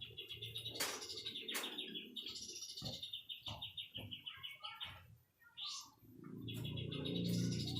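White-rumped shama (murai batu) singing fast runs of rapidly repeated high notes, pausing briefly about five seconds in before starting again. A low rumbling noise sits under the second run.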